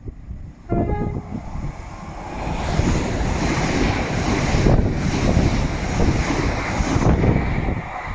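A train passing close at speed: a loud rushing noise that builds about two seconds in, holds, and falls away near the end, mixed with wind buffeting the microphone. A brief pitched tone sounds about a second in.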